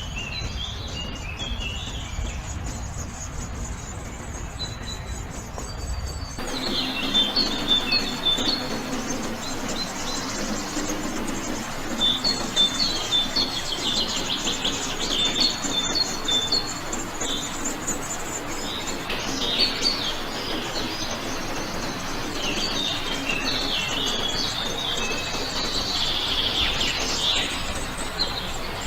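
Small birds chirping and trilling in a busy chorus. A low rumble under the first six seconds cuts off abruptly, and from then on the chirps come thicker and louder.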